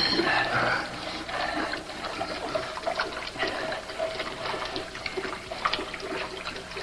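Water splashing and trickling, with many small irregular splashes and drips.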